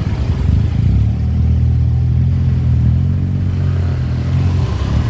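Motorbike engine running steadily during a ride, a low, even rumble.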